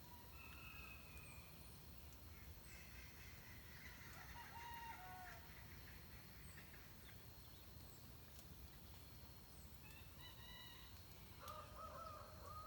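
Faint rooster crowing and fowl calling a few times, loudest near the end, with small birds chirping thinly in the background.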